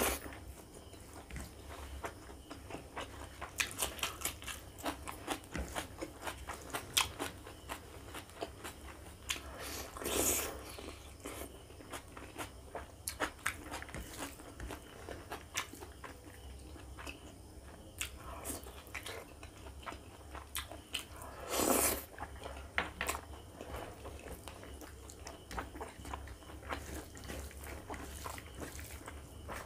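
Close-miked chewing and mouth sounds of a man eating pork fat and rib curry with rice by hand: a steady run of quick clicks and smacks, with two longer, louder sounds about ten and twenty-two seconds in.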